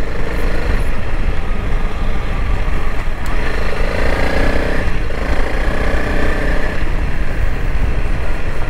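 2021 Honda CRF300L Rally's single-cylinder engine running steadily while the bike is ridden off-road, under a continuous haze of riding noise.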